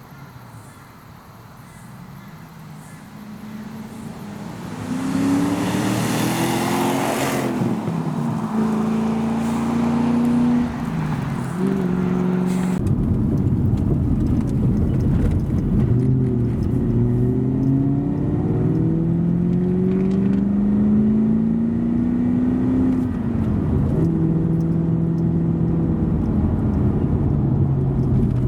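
Ford XR8 ute's 5.4-litre Boss 260 V8 under way. It gets louder a few seconds in, then its note repeatedly climbs and drops as it accelerates and changes gear.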